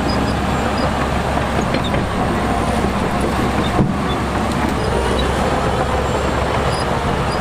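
Heavy diesel earthmoving machinery running steadily with a deep rumble, with one brief knock a little over halfway through.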